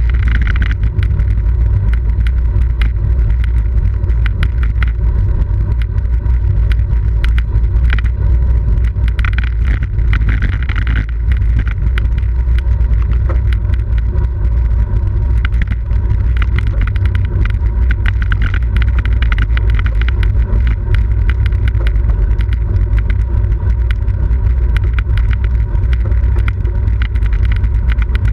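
Steady wind noise and road rumble picked up by a camera microphone riding on a bicycle at race speed, heaviest in the low end.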